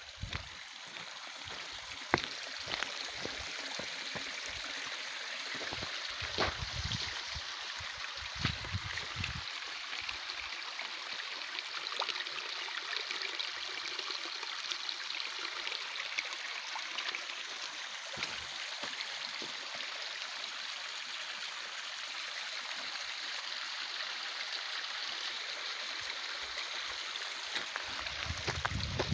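A stream running with a steady rush of water, with a few low thumps during the first ten seconds.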